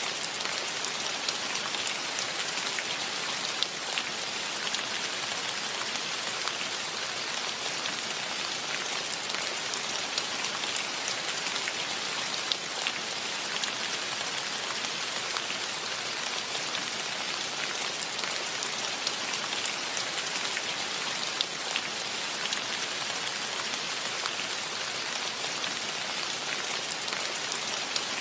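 Steady rain falling, an even hiss dotted with the patter of individual drops.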